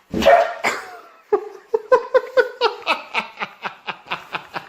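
High-pitched laughter: a loud burst at the start, then a quick, even run of short 'ha' pulses, about five a second.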